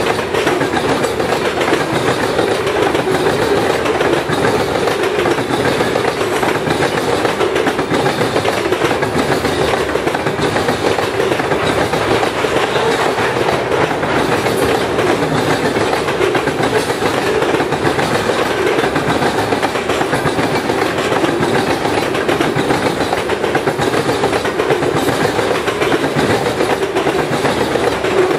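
Loaded covered grain hopper cars of a freight train rolling past, their steel wheels making a steady, unbroken noise on the rails.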